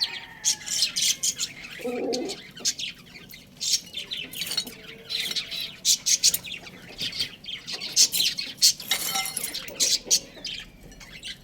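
Birds chirping: many short, high chirps in quick succession, with a brief lower call about two seconds in.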